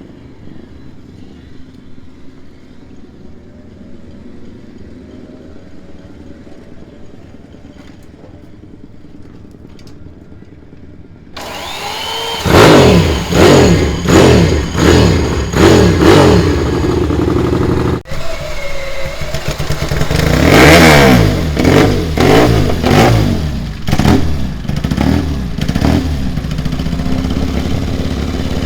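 Classic air-cooled racing motorcycle engines. A low, steady engine note runs at first. About twelve seconds in, an engine fires up loud and is blipped hard again and again, a sharp rev roughly every second. After a brief break, it carries on revving up and down.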